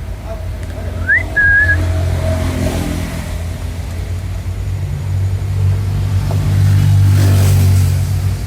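A single whistle about a second in, a quick upward slide into a short held note, then a low vehicle engine rumble that grows louder and peaks near the end as a vehicle passes.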